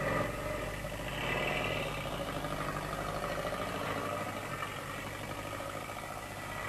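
Engine of an open touring car running steadily as it pulls away at low speed.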